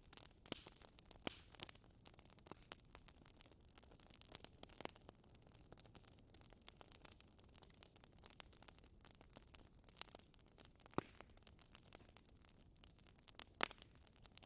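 Wood fire crackling in a fireplace: faint scattered snaps and pops over a soft hiss, with a sharper pop about eleven seconds in and the loudest one near the end.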